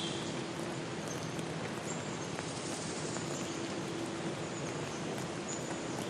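Outdoor ambience: a steady noisy background with a faint low hum and a few short, high chirps scattered through it.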